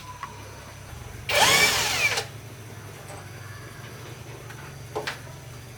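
A handheld power tool whirs briefly for just under a second, starting about a second in, its pitch bending up and down. A short sharp knock follows near the end, over a low steady hum.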